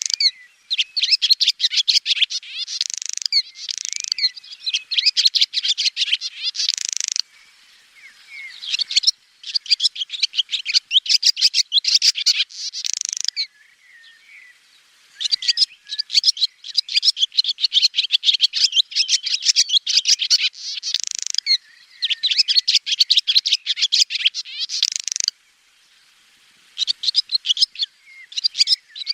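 Swallow twittering: long runs of rapid, high chirps and trills, broken a few times by short pauses.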